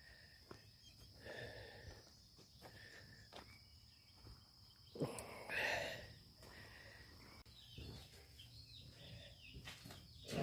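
Quiet outdoor farm ambience: a faint steady high-pitched tone with a few soft scattered sounds, and one louder brief sound about five seconds in.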